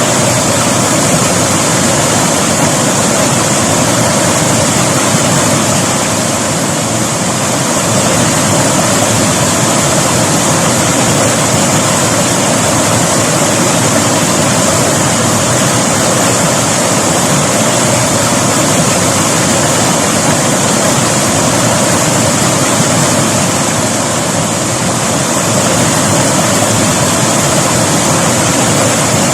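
River water rushing over rocks in a steady, loud flow.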